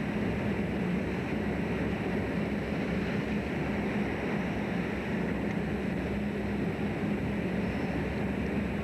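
Steady engine drone aboard a fishing boat, an unbroken hum with noise over it and no change in level.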